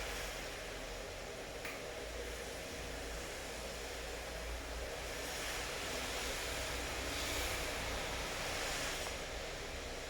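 Steady rainfall, an even hiss that grows a little louder for a few seconds in the middle, over a faint low rumble.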